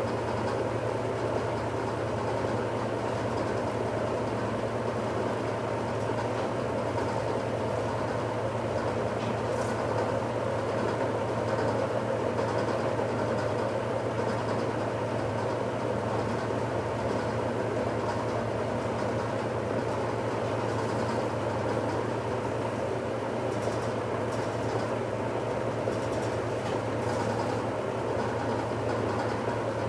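1969 Westinghouse LAJ 535A3 washing machine running through its cycle: a steady motor hum under a constant mechanical whir, without a break or change.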